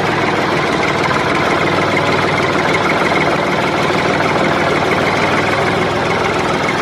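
A motor or engine running steadily at an even speed, with a faint steady whine over a low hum. It cuts in and out abruptly.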